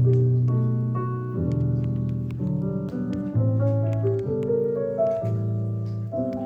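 Background music: slow piano with sustained chords changing about once a second.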